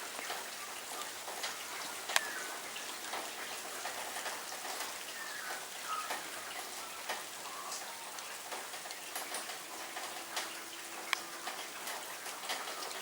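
Rain falling steadily, with scattered drops ticking sharply on nearby surfaces.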